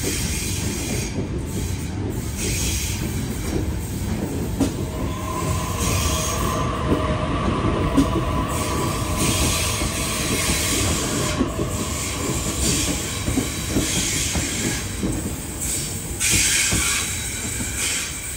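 Sydney Trains electric suburban train pulling out and running past along curved track, its wheels and carriages rumbling steadily. A steady wheel squeal comes in about five seconds in and fades after several seconds.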